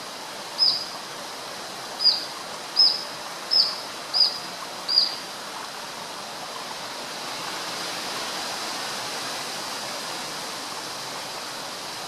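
Grey-headed canary-flycatcher calling: a run of six short, high whistled notes, each with a quick downward flick, which stops about five seconds in. Under it, the steady rush of flowing water.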